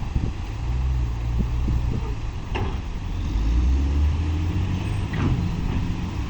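Heavy diesel earthmoving machinery running steadily at low revs, with a few sharp knocks and clanks, as at a site where dump trucks are loaded with fill soil.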